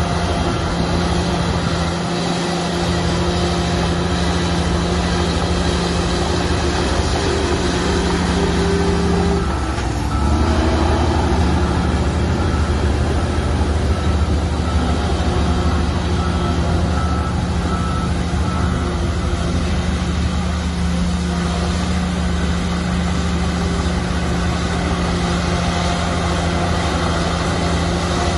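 Heavy diesel engine of earthmoving machinery running steadily under load. About ten seconds in its pitch dips briefly, then it comes back with a heavier low rumble.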